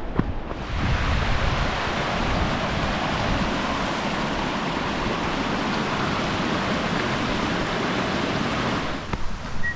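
Rushing creek water, a steady even rush that comes in a little under a second in and cuts off abruptly near the end.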